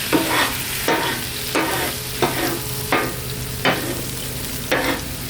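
Pork bites sizzling in sauce on a Blackstone steel griddle top, tossed with a metal tool that scrapes across the steel in short, regular strokes, about one a second.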